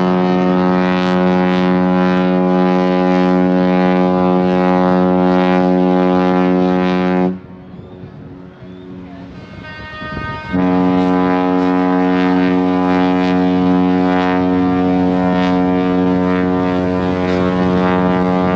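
MSC Seashore's cruise-ship horn sounding two long, deep blasts as she sails away: the first runs about seven seconds, stops for about three seconds, then the second sounds for about eight seconds.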